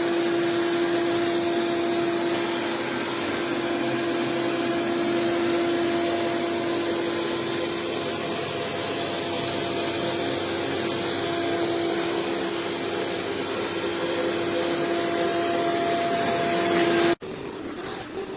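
Vacuum motor of an iRobot Roomba Plus 405 Combo system running steadily with a constant hum, then cutting off abruptly near the end.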